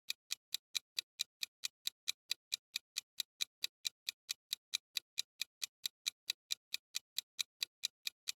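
Countdown-timer ticking sound effect: sharp, evenly spaced ticks, about five a second.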